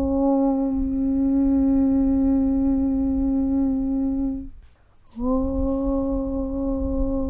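A long, steady hummed 'Aum' (Om) chant held on one pitch over a low rumble. It breaks off about four and a half seconds in and starts again half a second later, sliding slightly up into the same note.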